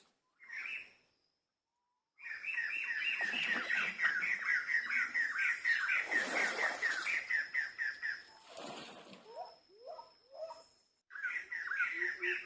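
Animal calling in a fast run of short high chirps, about seven a second, for several seconds, then again near the end, over a thin steady high tone.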